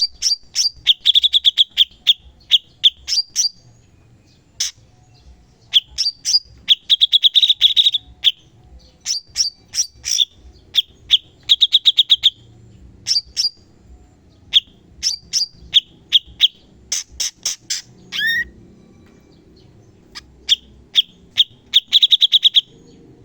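Cucak cungkok singing in rapid "shots": sharp high chirps and fast rattling trills in short phrases, separated by brief pauses, with one swooping note near the end.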